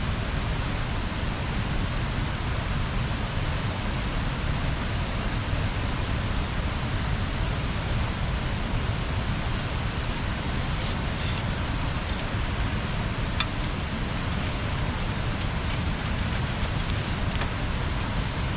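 Bonfire burning: a steady rushing noise with a few sharp crackles and pops in the second half.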